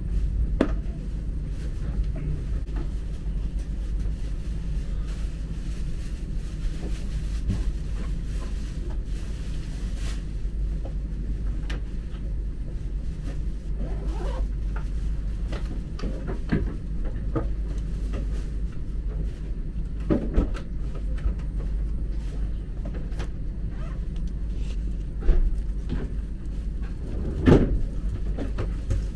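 Inside a high-speed train carriage: the steady low rumble of the train running, with a few short knocks or clunks, the loudest two near the end.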